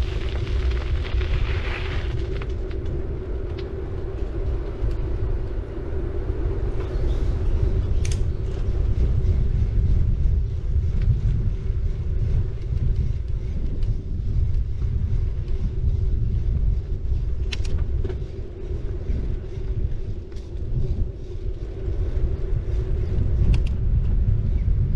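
A city bicycle being ridden, heard as a steady low rumble of wind and road on the action-camera microphone with a steady hum. Three short sharp clicks are spread through it.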